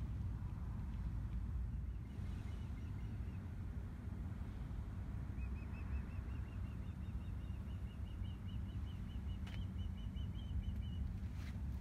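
A bird singing a long run of quick, evenly repeated high chirps, starting about five seconds in and running until near the end, after a shorter run about two seconds in. Underneath is a steady low rumble, like wind on the microphone, and there are a couple of sharp clicks near the end.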